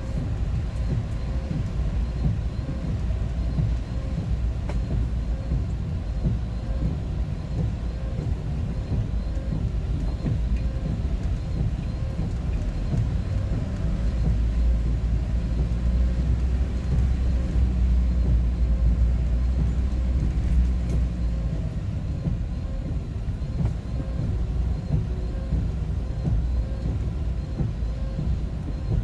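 Steady low rumble of road and engine noise inside a moving vehicle's cabin, swelling a little louder for several seconds in the middle.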